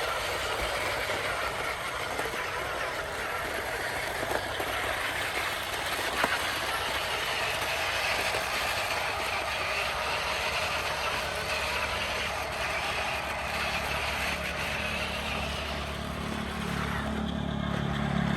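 Radio-controlled construction vehicle running: a steady whir of electric motor and gears, with a single click about six seconds in and a lower hum coming in near the end.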